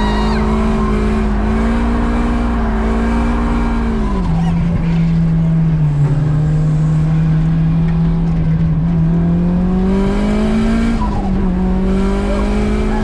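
Drift car's engine at high revs, heard from inside the cabin, with the tyres squealing as the car slides. The engine note holds high, falls about four seconds in and climbs back near the end.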